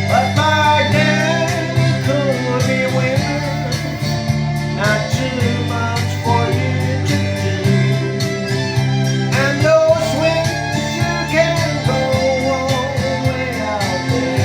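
A voice singing a slow, wavering melody over a steady guitar accompaniment.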